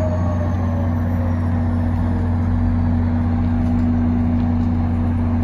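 Train engine running with a steady low hum, and a faint tone that falls in pitch and fades about a second in.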